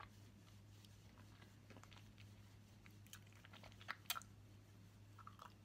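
Faint mouth sounds of someone chewing a piece of caramel-filled milk chocolate: soft wet clicks scattered through, the sharpest a pair about four seconds in, over a steady low hum.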